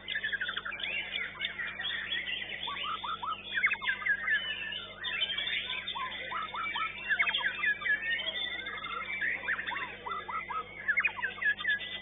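White-rumped shama (murai batu) singing a fast, varied stream of whistles and chirps that sweep up and down in pitch.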